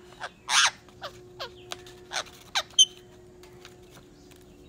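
Pet tiya pakhi (rose-ringed parakeet) calling: about seven short screeching calls, each falling in pitch, the loudest about half a second in, ending with a sharp high chirp just before three seconds, then quiet. The bird is restless to come down to its owner.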